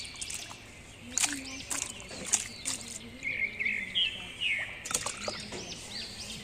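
Small birds chirping: a quick run of short, arched chirps repeated throughout, with a few sharp clicks or knocks in between.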